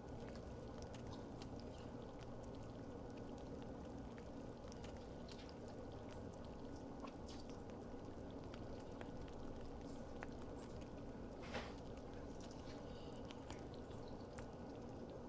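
Faint, wet clicks and smacks of someone eating, scattered over a steady low hum.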